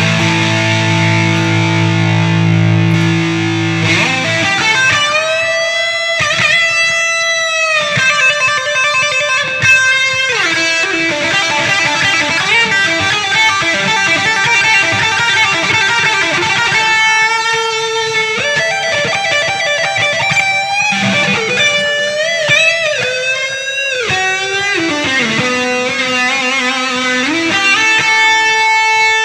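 Fender Strat Plus electric guitar through an effects unit: a held chord for the first few seconds, then a lead line of single notes with string bends and vibrato on the held notes.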